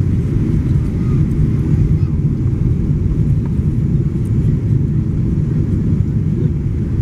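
Airplane noise: a loud, steady low rumble with no distinct events.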